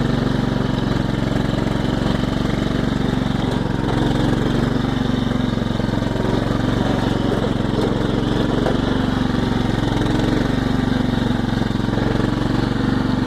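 Small tractor's engine running steadily at an even speed.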